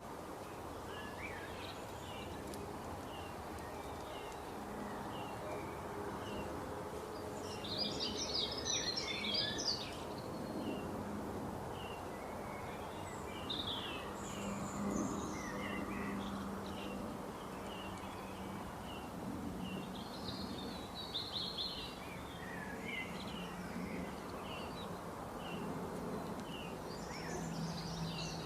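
Birds calling: short chirps repeating at an even pace, broken by a few busier bursts of song, over a steady background hiss and a faint low hum.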